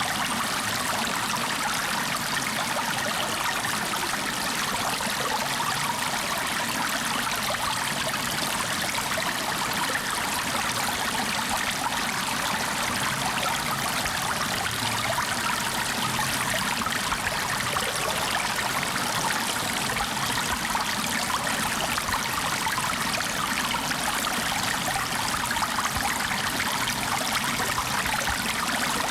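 Flowing water, a steady, unbroken rushing with no pauses or changes.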